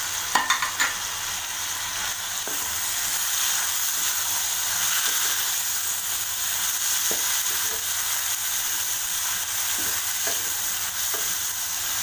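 Onions, potato cubes, tomatoes and green chillies sizzling in oil in a metal wok while a slotted spatula stirs and scrapes them. A steady hiss runs throughout, with a few sharp clicks near the start.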